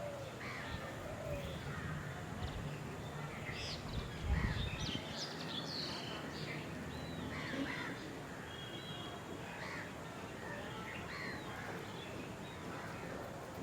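Several wild birds calling and chirping over one another in short, curved whistled notes, with a brief low thump about four seconds in.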